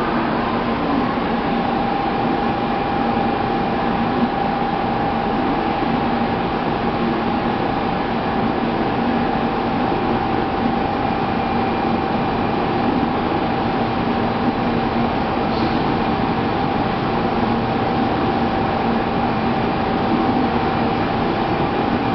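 Kyushu Shinkansen 800 series train standing at the platform, its on-board equipment giving a steady hum with a constant mid-pitched tone and a lower one.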